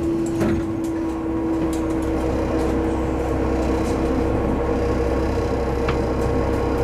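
Diesel railcar running along the line, heard from inside: a steady engine hum and low rumble with a few faint clicks from the track.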